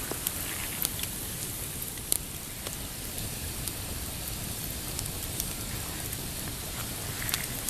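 Pine campfire crackling, with scattered sharp pops, the loudest about two seconds in, over a steady low wash of small waves lapping on a rocky shore.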